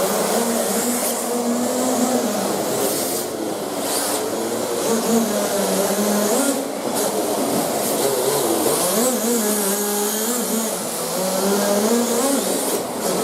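Engine sound of a rear-wheel-drive RC drift car, a high buzzing note that keeps rising and falling as the throttle is worked, over a steady hiss.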